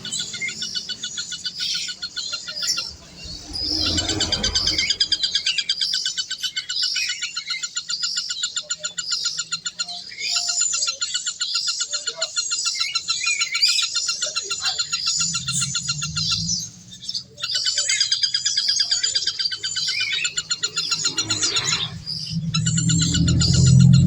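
Birds chirping in fast, continuous trills, with a low rumble swelling twice, once around the middle and again near the end.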